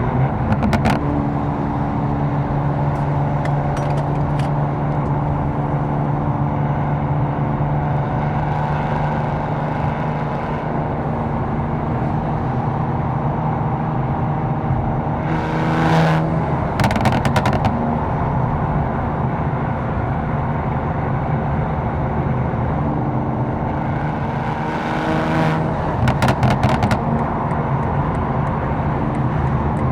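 Tuned BMW M4's twin-turbo inline-six running steadily at cruising revs, with two slight rises in pitch. Three short bursts of sharp crackles or clicks come through: one right at the start, one about halfway, and one near the end.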